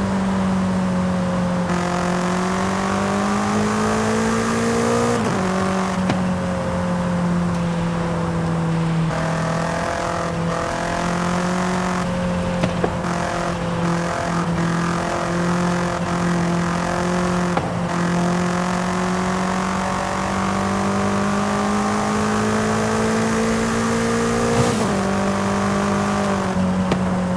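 BMW M5 CS's twin-turbo V8 pulling steadily, its note climbing slowly and then dropping sharply at an upshift about five seconds in and again near the end, holding a steady pitch in between.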